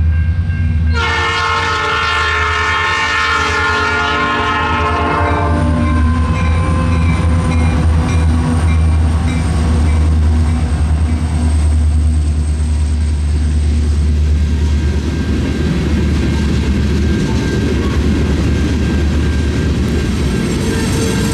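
Freight train led by CN EMD SD60 diesel locomotives: the horn sounds one long chord starting about a second in and fading away by about six seconds, over the steady low drone of the diesel engines and the rumble of the passing train.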